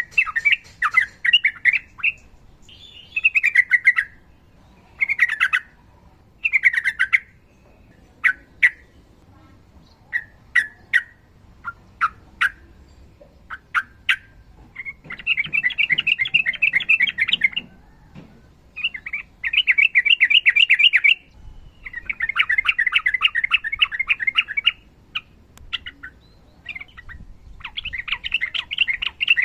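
Sooty-headed bulbul (trucukan) calling. Short chirps and down-slurred notes fill the first half. Then four long, rapid trills follow, the long 'ropel' rattle of a bird in fighting mood.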